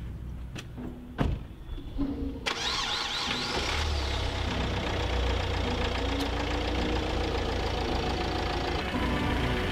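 A few sharp knocks, then a vehicle engine starts about two and a half seconds in and keeps running steadily.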